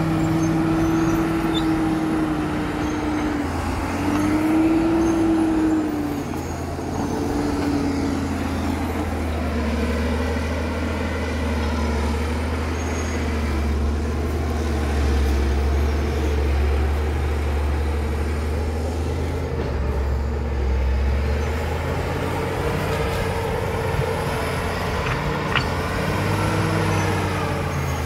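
Caterpillar D7 bulldozer's diesel engine running under working load, its pitch rising and falling several times as the revs change.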